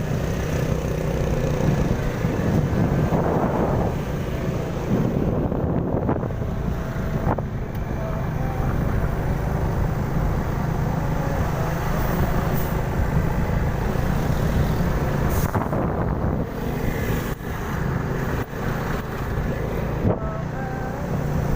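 Slow road traffic: car and truck engines running steadily with a low hum, with a few brief knocks.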